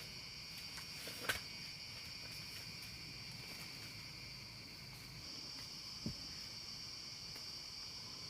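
A steady, high, continuous drone of insects chirring in the forest, with a faint click about a second in and a short dull knock about six seconds in.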